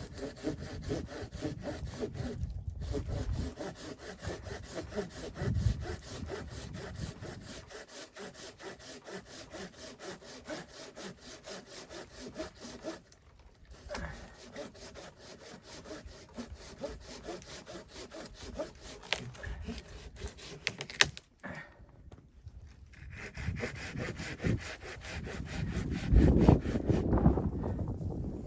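Hand saw cutting through wood in quick, even back-and-forth strokes, with two short pauses, until the cut stops about three quarters of the way through. In the last few seconds come louder knocks and rustling of wood being handled.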